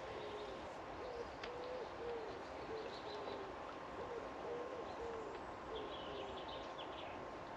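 A bird giving a run of short, soft hooting calls, about two or three a second, with brief pauses between runs.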